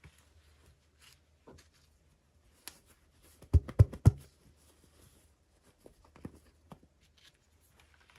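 Hands handling small plastic toys and packaging: scattered light clicks and rustles, with three sharp knocks close together about three and a half seconds in.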